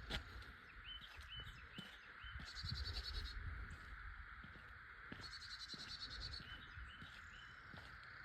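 Birds calling: three quick, fast-pulsed trilled phrases a couple of seconds apart, with short rising chirps between them, over a steady high hiss and a faint low rumble.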